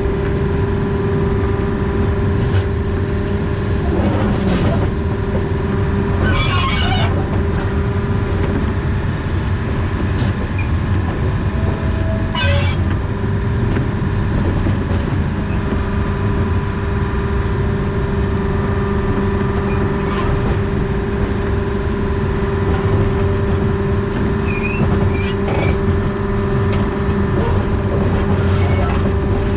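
Diesel engine of a narrow-gauge diesel-hydraulic locomotive running steadily as the train travels, with a constant drone and a steady hum. A few brief high squeaks come through over it.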